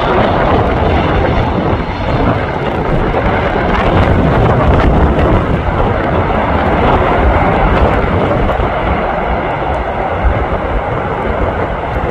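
Jet engine noise from a Boeing 747-400 freighter, a loud steady rumble mixed with strong wind buffeting the microphone.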